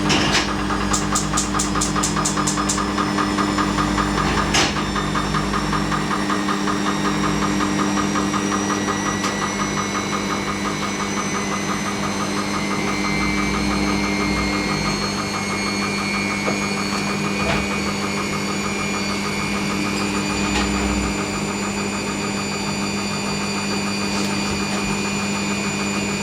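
Hoover NeXtra front-loading washing machine on its intermediate spin after the wash drain, the motor whine slowly rising in pitch as the drum gathers speed, over a steady hum with a fast rattling vibration and a few clicks. The spin is a slow one, at about 400 rpm.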